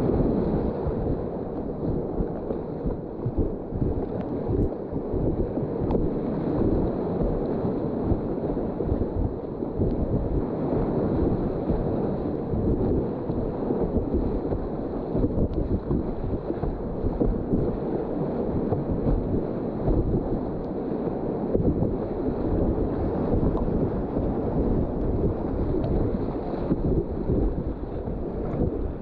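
Whitewater of the White Salmon River rushing steadily, with wind buffeting the microphone.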